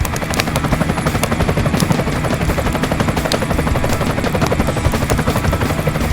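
Helicopter rotor sound, a rapid, even chopping beat.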